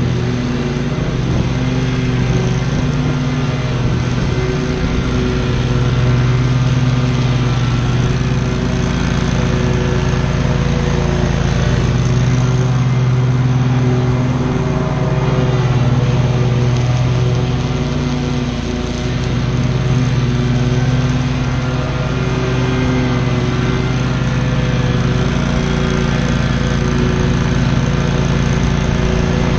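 Lawn mower engine running steadily while cutting tall grass, its pitch shifting slightly now and then.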